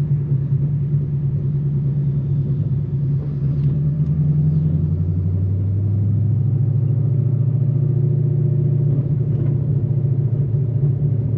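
Ford Mustang's 5.0-litre Coyote V8 running while driving, a steady low exhaust drone. About four and a half seconds in its pitch drops as the revs fall, then holds steady.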